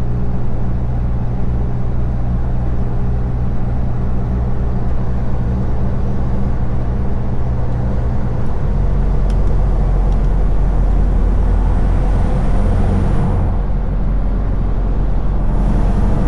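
Scania V8 truck engine running steadily while driving, its low note shifting a little over halfway through, with two brief whooshes near the end.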